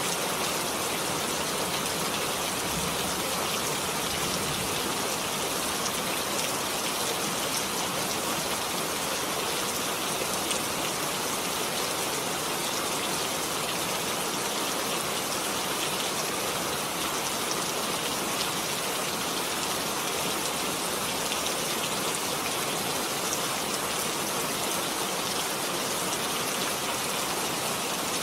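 Heavy rain falling steadily, a dense even hiss of drops on surfaces with no thunder or other events.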